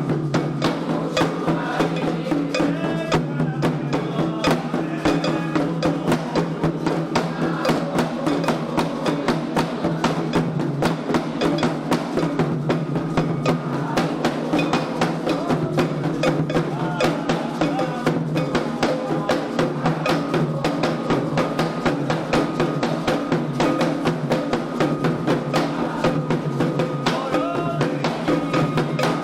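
Candomblé ritual drumming: atabaque hand drums playing a steady, driving rhythm, with a struck agogô bell keeping the time line.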